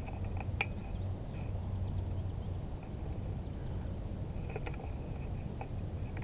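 Outdoor background noise: a steady low rumble with two sharp clicks about four seconds apart and faint high chirping.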